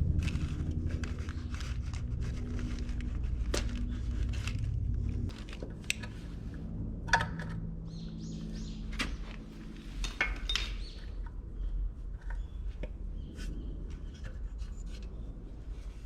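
A running engine with a steady low hum stops about five seconds in. After that come scattered light metallic clinks and knocks, like tools being handled.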